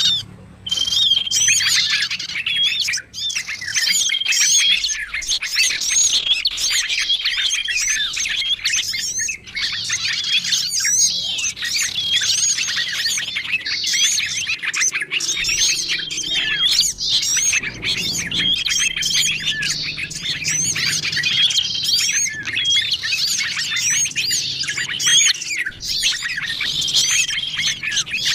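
Dense chorus of many small songbirds chirping and twittering over one another, a bird-lure (pikat) track for small wild birds. Quick sweeping chirps run throughout, with short flat whistled notes repeating every few seconds.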